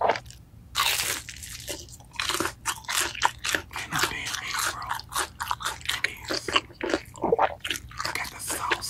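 A crisp bite into crunchy breaded fried food about a second in, then rapid crackling crunches as it is chewed, close to the microphone.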